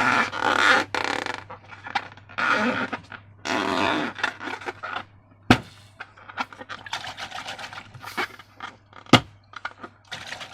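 Slime being squeezed and worked with balloons: several wet, squishy squelching bursts in the first few seconds, then a run of small crackles and clicks broken by two sharp snaps, about five and a half and nine seconds in.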